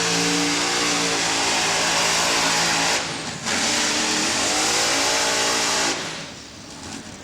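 Modified pulling tractor's engine at full power under load. The sound dips briefly about three seconds in, comes back with rising pitch, then drops away about six seconds in.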